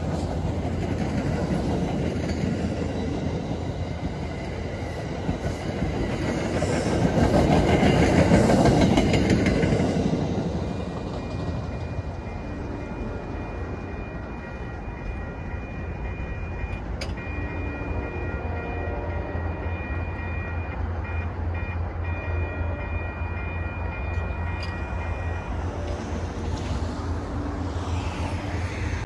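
MBTA commuter rail diesel-hauled train passing, its coaches rolling over the rails with a clickety-clack. It is loudest about eight seconds in and dies away at about ten seconds. A steady low rumble is left, with a thin high steady tone for a while after the train has gone.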